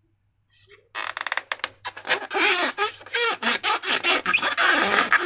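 Slime and a rubber balloon being squeezed and worked by hand: after about a second of near silence, a fast, continuous run of wet crackling, squelching and short rubbery squeaks.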